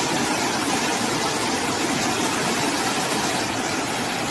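Steady rushing of water, an even unbroken roar with no distinct events.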